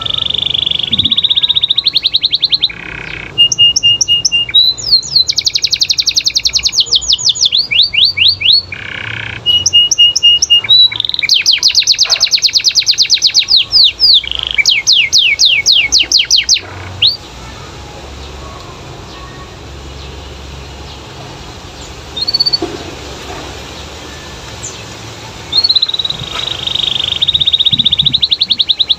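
Domestic canary singing loudly in fast, high-pitched trills and rolls of rapidly repeated notes. It pauses for several seconds past the middle, then starts trilling again near the end.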